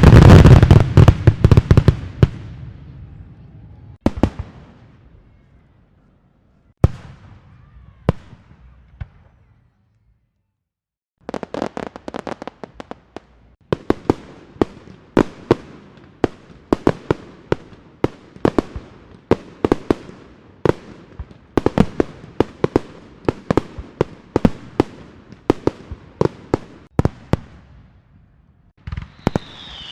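Fireworks and firecrackers going off. A dense barrage of bangs and crackling at the start dies away over about two seconds, with single sharp bangs about four and seven seconds in. After a brief silence comes a long run of rapid, irregular pops and cracks.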